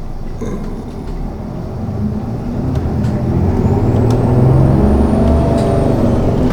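City bus engine heard from inside the cabin, getting louder from about two seconds in as the bus pulls away and picks up speed, with a few short clicks and rattles.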